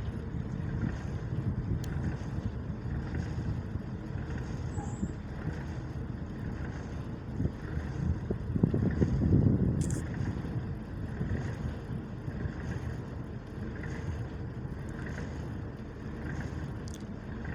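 Boat running on the water during a test run: a steady engine rumble mixed with wind noise, swelling briefly about nine seconds in.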